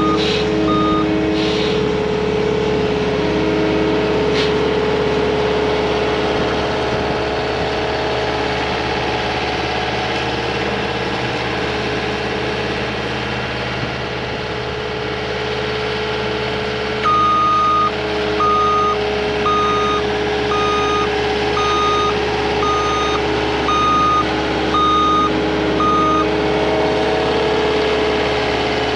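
CAT 259D compact track loader's diesel engine running steadily. Its backup alarm beeps twice at the start, then again about halfway through, about ten beeps at roughly one a second, as the machine reverses.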